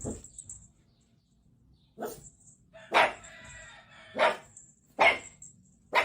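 A dog barking in single, separate barks, about six of them roughly a second apart.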